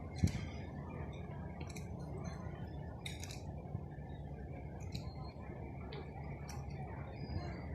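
Outdoor marina ambience: a steady low wind rumble on the microphone, with light clinks every second or two.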